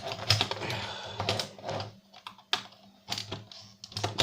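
Irregular small plastic clicks and knocks as the drive mechanism of a DVD player is handled and prised loose, dense at first and sparser after about two seconds, over a faint low steady hum.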